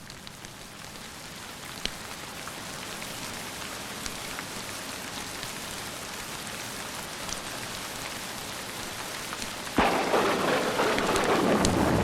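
Steady rain, slowly growing louder, with a few sharp ticks of drops; about ten seconds in, a sudden clap of thunder breaks and rolls on.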